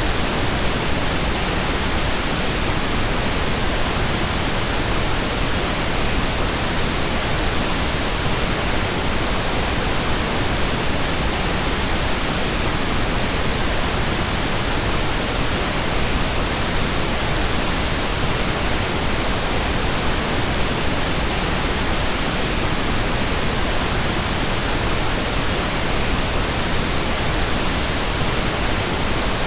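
Steady, continuous pink noise: an even hiss across the whole range, unchanging throughout.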